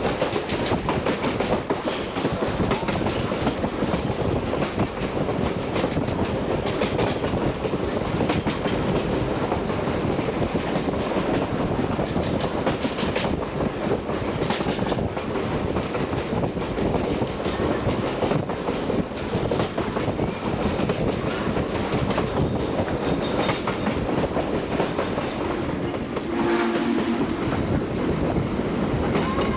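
A steam-hauled train rolling along the track, its wheels clicking over rail joints with steady running noise. A short pitched tone sounds briefly near the end.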